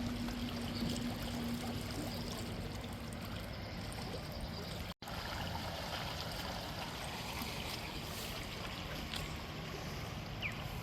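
Flood-swollen river flowing, a steady rush of water, with a faint hum fading out early on and the sound cutting out for an instant about halfway.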